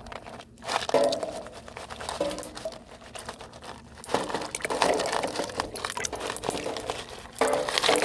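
Irregular crinkling and crunching as ice cubes are poured into a dog's bowl.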